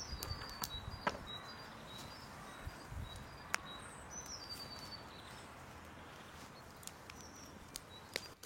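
Birds chirping over quiet outdoor ambience, with a few scattered sharp clicks and knocks.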